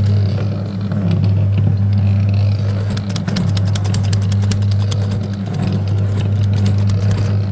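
Falgas pirate ship kiddie ride running with a steady low hum, with a fast run of clicks from about three seconds in until near the end.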